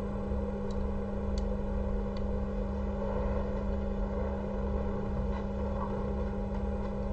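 A steady electrical hum with a low throbbing underneath, and a few faint clicks.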